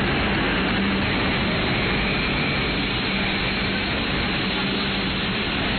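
E5 series Shinkansen pulling into a platform at low speed: a steady rushing running noise with a low hum underneath.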